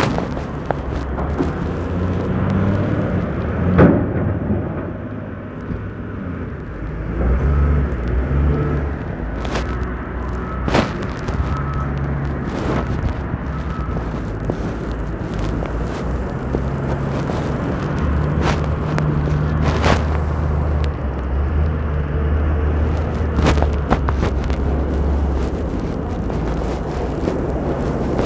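City street traffic: vehicle engines running and passing, with a low hum that swells twice, and scattered sharp knocks and clicks.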